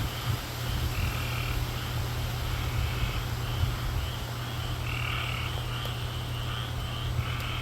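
A chorus of frogs calling, short croaking calls repeating in quick succession and overlapping, over a low steady rumble.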